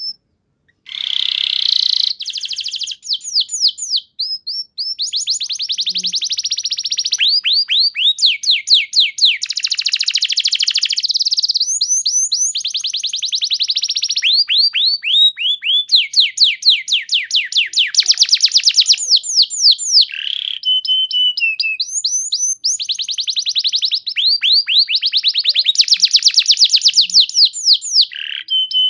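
Domestic canary singing a long, unbroken song of rapid trills, mostly fast runs of repeated downward-sweeping notes, changing to a new trill every second or two.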